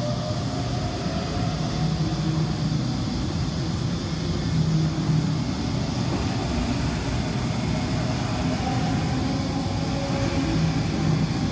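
Sydney Trains Waratah electric multiple unit pulling out of the platform: a steady rumble of wheels and traction motors with a faint whine that drifts in pitch.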